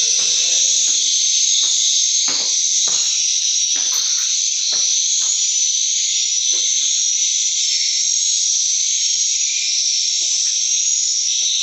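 Dense, continuous twittering of edible-nest swiftlets, steady and loud, the sound of a swiftlet house. Faint scattered knocks sit beneath it, mostly in the first half.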